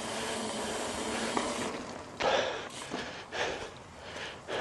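Riding noise from a Trek Roscoe 8 mountain bike rolling down a dirt dike: a steady rush of wind and tyre noise, then short puffs about once a second from about two seconds in.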